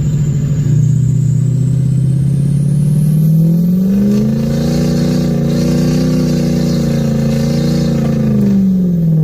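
Diesel pickup truck engine pulling through deep snow: it runs steadily, then revs up from about four seconds in, holds high, and eases back down near the end.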